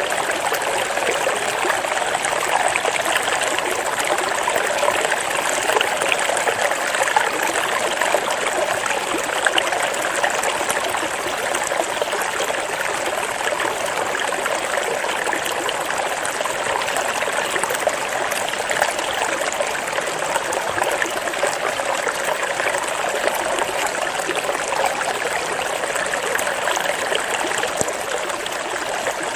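Flowing water, a steady trickling and splashing like a small stream running over stones.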